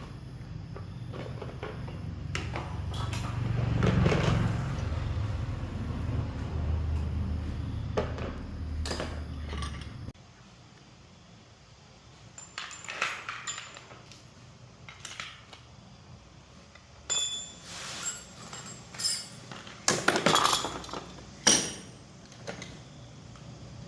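A steady low machine hum cuts off abruptly about ten seconds in. After it come scattered metallic clinks and knocks, like tools and metal parts being handled and set down.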